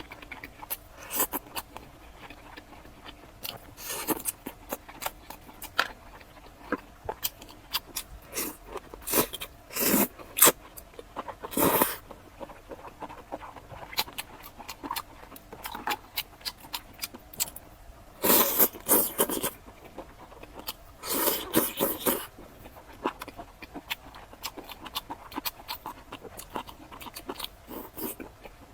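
Close-miked eating of chili-oil skewers (hongyou chuanchuan): wet chewing and mouth clicks throughout, with several longer, louder bursts of biting or slurping.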